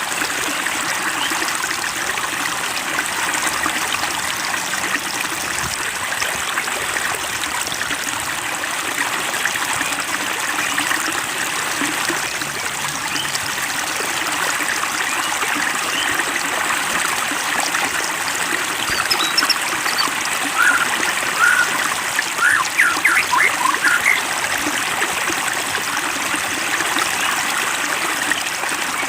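Water trickling and babbling steadily. About twenty seconds in, a quick cluster of short, high chirps sounds over it.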